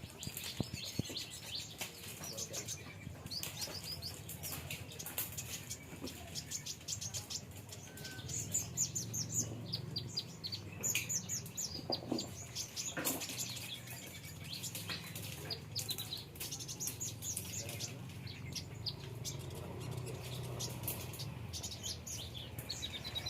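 Small aviary birds called konin chirping almost continuously in many short, high notes, with wings fluttering now and then.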